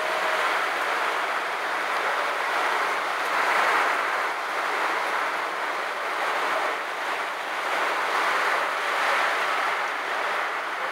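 Heavy rain falling, a steady even hiss with gentle swells in loudness.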